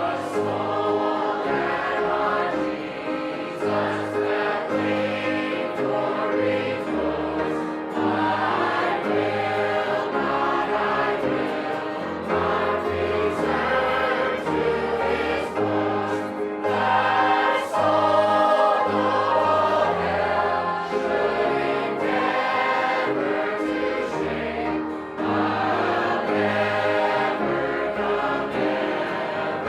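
A choir singing a hymn with instrumental accompaniment: held sung chords moving over a steady, step-wise bass line.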